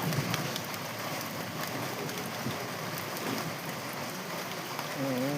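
Heavy rain falling steadily, an even wash of drops on the surfaces around.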